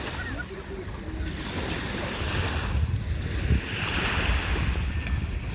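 Sea waves washing onto the shore, surging about two seconds in and again about four seconds in, with wind rumbling on the microphone.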